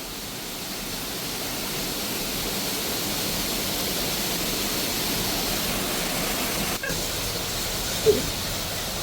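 Waterfall's falling water rushing in a steady, dense hiss, heard from in the plunge pool close beside the falls.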